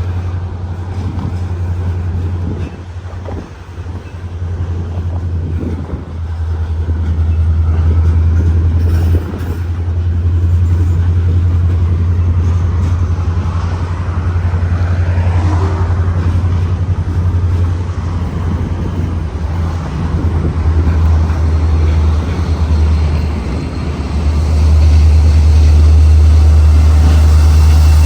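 Diesel locomotives running in a rail yard during a switching move, a steady low engine rumble that dips briefly twice and grows louder near the end.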